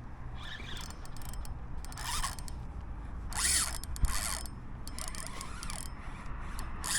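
Fishing reel ratcheting in several short bursts of clicking and buzzing while a hooked barracuda is fought from a kayak.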